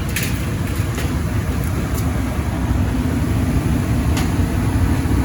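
Residential gas furnace running a heat cycle: a steady low rumble of the blower and burners moving air, with a few faint clicks.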